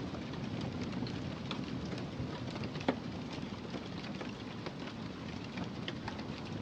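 Wood fire crackling in a fireplace: a steady low rumble of burning with scattered small pops, and one louder pop about three seconds in.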